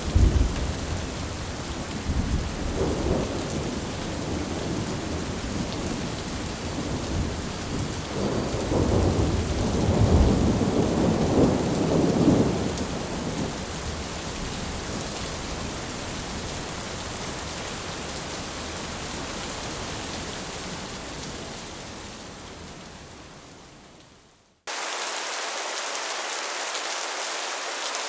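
Steady rain on tin with rolling thunder, the thunder swelling near the start and again about a third of the way in. The track then fades out to a brief silence and the rain comes back alone, without thunder.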